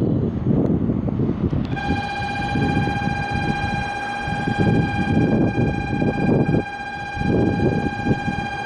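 Station platform departure buzzer: a steady electronic tone starts about two seconds in and holds without a break, over low rumbling from the train and the platform.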